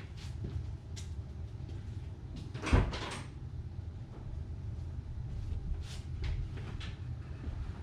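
Chevelle engine idling through its single-chamber dual exhaust in a steady low rumble, with one sharp thump about three seconds in, such as a car door shutting, and a few light clicks.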